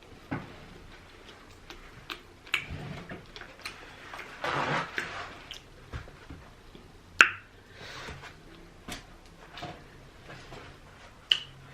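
Close-miked eating sounds of someone eating rotisserie chicken: scattered wet mouth clicks, smacks and chewing, with a longer breathy rush about four and a half seconds in and a sharp click about seven seconds in.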